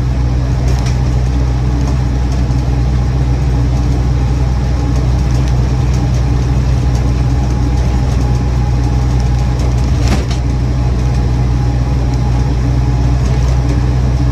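Land Rover Series 1 88-inch's 2-litre four-cylinder petrol engine running steadily while driving, heard from inside the cab with road noise. A couple of short rattles come from the camera mount on the sliding perspex side window, one about a second in and one about ten seconds in.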